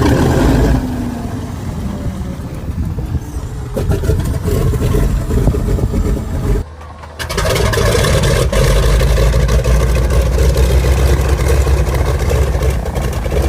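Piston engine of an old warbird aircraft catching loudly and running, uneven at first. It drops away briefly about seven seconds in, then runs on steadily.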